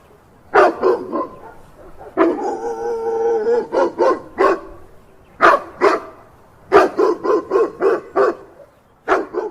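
Dog barking: a few sharp barks, a drawn-out howling call, then quick runs of barks.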